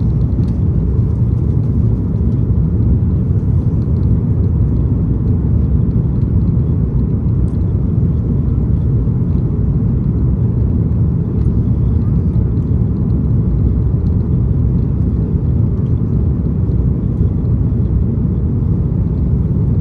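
Steady low rumble of an Airbus A330-200 heard from inside the passenger cabin, engine and airflow noise holding even throughout.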